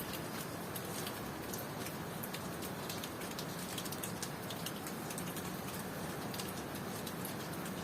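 Steady rain falling, an even hiss with many individual drops ticking sharply against it.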